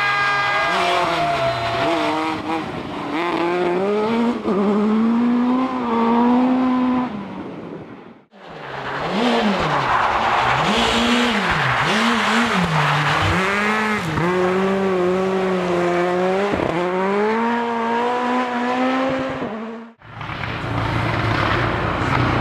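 Rally cars driven hard on a special stage, their engines revving up and falling back as the drivers shift and lift for corners. The sound is in three stretches, broken by abrupt cuts about 8 seconds and 20 seconds in.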